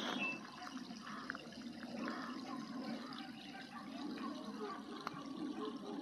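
Songbirds chirping and singing: many short calls and quick rising and falling notes, with a steady low rushing noise underneath.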